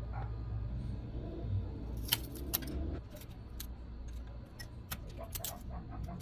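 Small tools and parts clicking and tapping as they are handled: two sharp clicks a couple of seconds in, then a run of lighter ticks, over a low steady hum.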